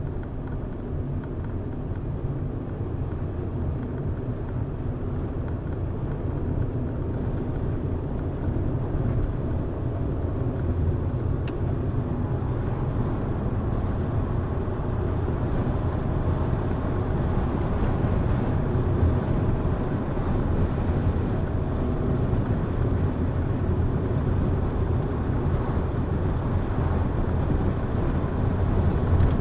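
A car being driven: steady engine and tyre-on-road rumble that grows a little louder over the stretch.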